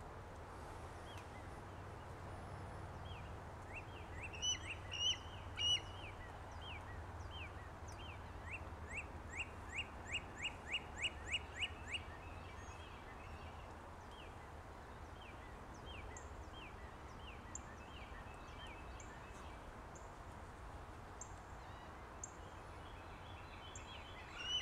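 Bird calling: short, high, falling whistled notes, scattered at first, then a quick run of a dozen that speeds up about nine to twelve seconds in, then single notes spaced out again. A steady low rumble sits underneath.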